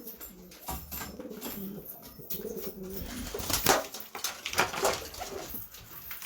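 Domestic pigeons cooing in a loft, with a few short sharp rustling noises in the second half.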